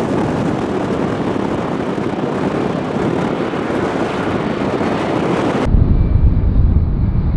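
Strong gusting wind blasting the microphone as a loud, steady rushing noise. Near the end the sound suddenly goes dull and deep, turning into a heavy low rumble with the treble cut off, as the recording switches to an external microphone.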